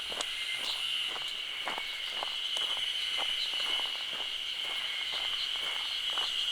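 Footsteps walking along a forest trail at an even pace, about two steps a second, over a steady high-pitched drone of insects.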